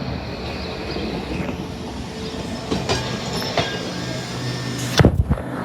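Trolley car running past on its rails, with a steady low motor hum and a few sharp wheel clicks over the rail joints about three seconds in. A loud low thump comes near the end.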